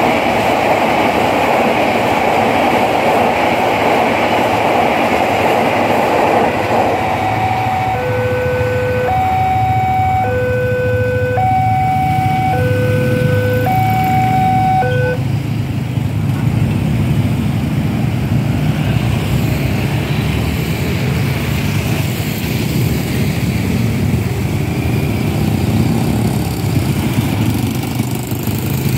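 Passenger train rolling past a railway level crossing, its rushing noise dropping away about six seconds in. The crossing's electronic warning alarm then sounds an alternating low–high two-tone signal, about a second per tone, and stops about fifteen seconds in as the barrier lifts. Motorcycle engines idle and rev underneath.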